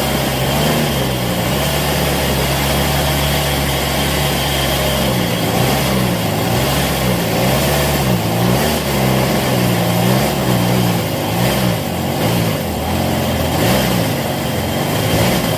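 Homemade two-stroke twin-cylinder engine built from Motobécane AV7 moped parts, running. It holds a steady speed at first, then from about five seconds in its revs rise and fall again and again as the throttle is blipped.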